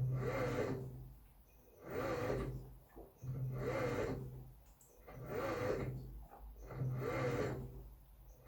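Samsung Wobble top-loading washing machine agitating a comforter in the wash: the pulsator motor hums and the water and bedding swish with each stroke, about one stroke every one and a half to two seconds, with short pauses between as the drive reverses.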